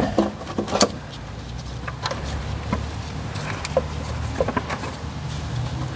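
Scattered light clicks and knocks of hand work in an engine bay, as a valve cover and a wiring bracket are worked loose, over a steady low hum.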